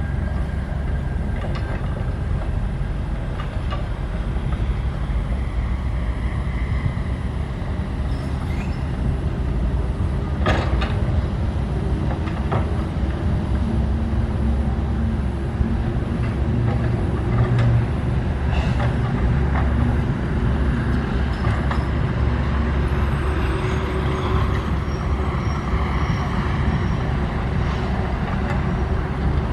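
SANY SY135F excavator's diesel engine running steadily under working load, a deep drone that swells around the middle, with a few knocks and clanks from the machine, the sharpest about ten seconds in.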